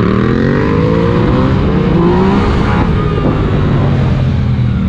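Yamaha MT-09's three-cylinder engine on its stock exhaust, accelerating hard with the pitch climbing twice as it pulls through the gears, over heavy wind rumble.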